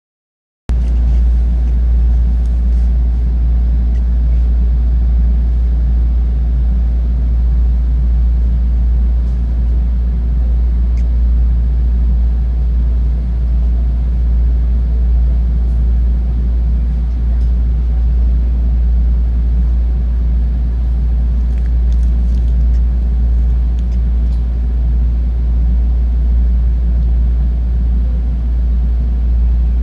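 Steady deep rumble and hum of a 223 series electric train standing still just after an emergency stop, with a few faint clicks above it.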